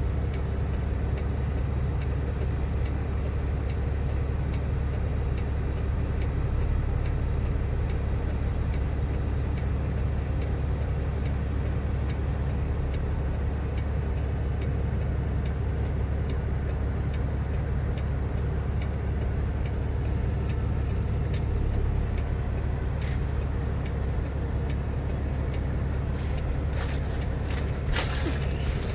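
Semi-truck diesel engine idling steadily, a constant low hum, with a few sharp clicks near the end.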